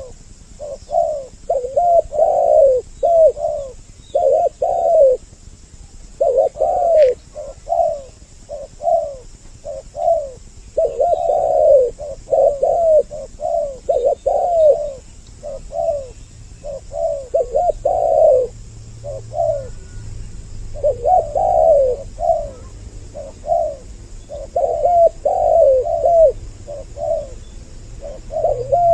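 Spotted doves cooing: phrases of short, arched coos repeated over and over with brief pauses between phrases.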